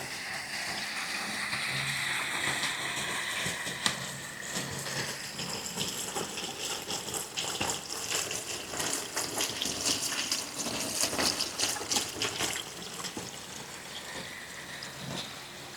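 Running water splashing, with dense small splashes in the middle stretch, then easing off.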